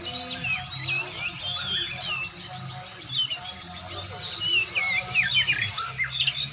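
Oriental magpie-robin singing a rapid, varied song of quick chirps and whistled slurs, over a low steady hum.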